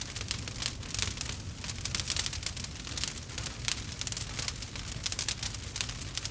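Campfire crackling: dense, irregular snaps and pops over a steady low rumble.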